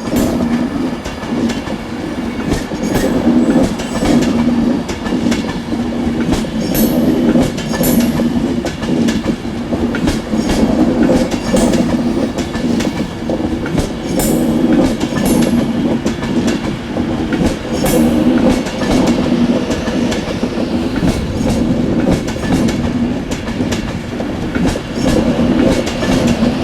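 Class 185 diesel multiple unit running into the platform: a steady engine drone with wheels clicking over rail joints.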